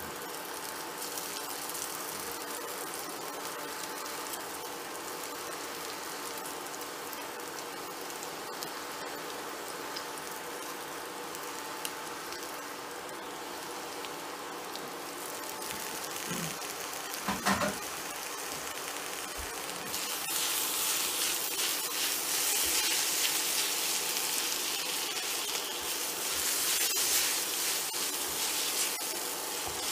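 Boiled egg noodles sizzling as they fry in a cast iron wok, a steady frying hiss that gets louder about two-thirds of the way through as they are tossed in the hot oil.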